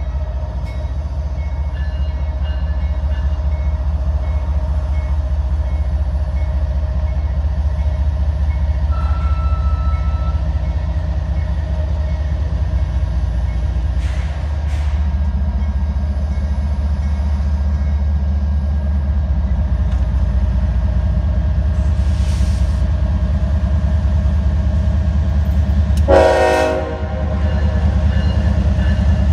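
A train runs with a steady deep rumble, with two sharp clicks about halfway through and one short horn blast a few seconds before the end.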